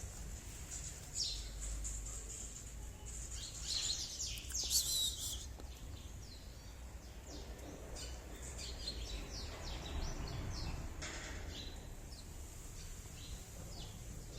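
Small birds chirping in quick, high twitters, busiest about four seconds in and again in the second half, over a steady low background rumble.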